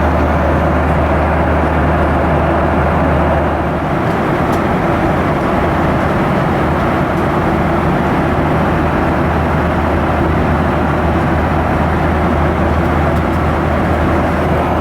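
Steady cabin noise inside a Boeing 737-900 in flight: the drone of its CFM56 engines and the rush of air past the fuselage. The low hum eases slightly about four seconds in.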